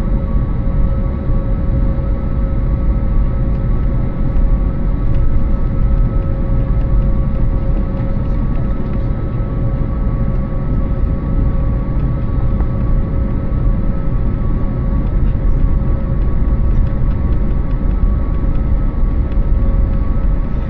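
Airbus A320-family airliner's jet engines running steadily, heard inside the passenger cabin: a constant low rumble with an even, unchanging whine on top.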